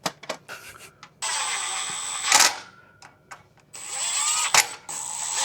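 A handheld power or air tool runs in two bursts, each starting and stopping abruptly. The first lasts about a second and the second runs about three seconds. Each burst is a steady hiss with a thin high whistle over it, and there are a few sharp clicks between them.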